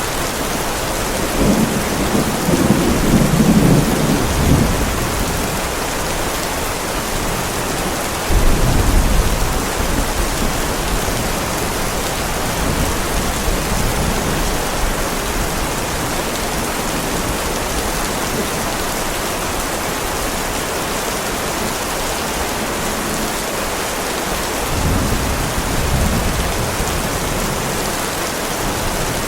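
Heavy rain falling steadily on a driveway, with thunder rumbling three times: a rolling rumble in the first few seconds, a sharper one that starts suddenly about eight seconds in, and a softer one near the end.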